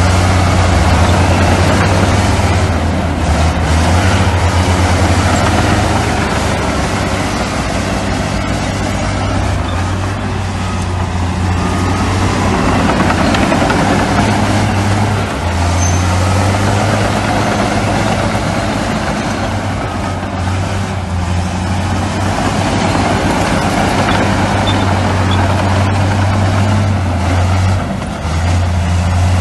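Heavy diesel engine of earthmoving machinery running under work, a deep steady hum over a wash of mechanical noise. The hum eases about five seconds in and comes back strong about fifteen seconds in.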